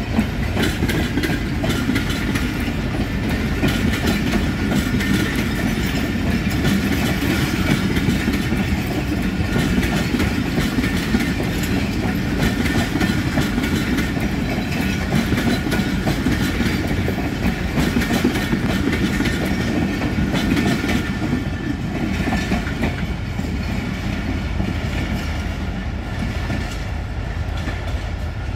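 A Pakistan Railways passenger train's coaches rolling past at close range, the wheels clicking steadily over rail joints. The sound eases off over the last several seconds as the train draws away.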